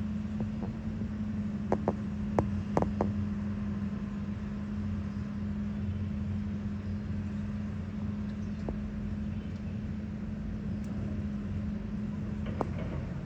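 A machine's engine running steadily at a constant pitch, with a quick cluster of sharp knocks about two seconds in and one more near the end.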